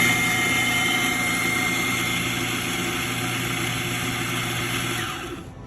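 On-demand espresso grinder grinding a dose into a portafilter: a steady motor hum with a high whine and a gritty grinding noise. It runs about five seconds, then the motor cuts off and winds down.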